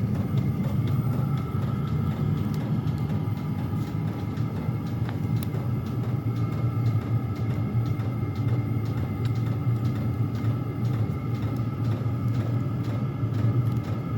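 Several Chinese diesel air heaters running together: a steady low rumble with a few steady whining tones above it, two of them exhausting without a muffler.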